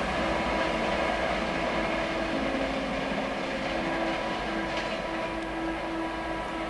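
Express train running past at speed: a steady rush of wheels on the rails with a faint steady whine, easing off slightly toward the end.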